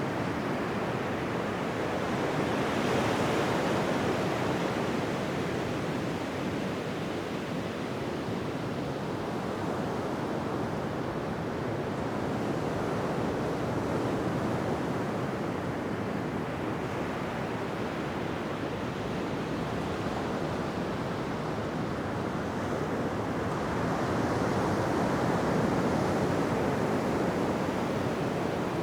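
Ocean waves breaking on a beach: a continuous wash of surf that swells about three seconds in and again near the end.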